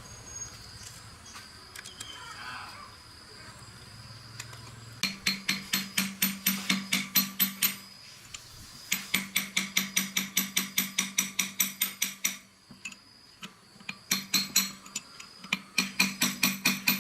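Rapid metallic striking, like a hammer tapping on metal, at about six blows a second. It comes in runs of a few seconds with short pauses, after a few quiet seconds of insects chirping.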